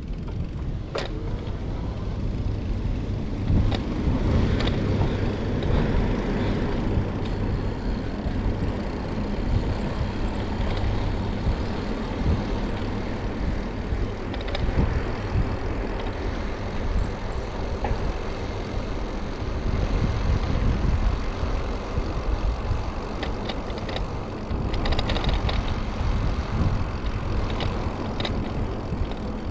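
Steady low rumble of wind and riding noise on a bicycle-mounted camera's microphone while cycling, with a few faint clicks.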